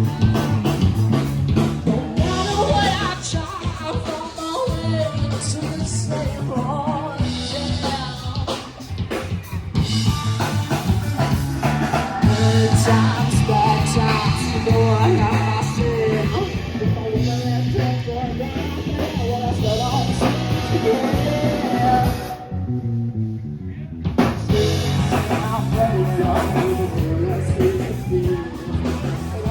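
Live rock band playing a song, with singing over drums and guitar.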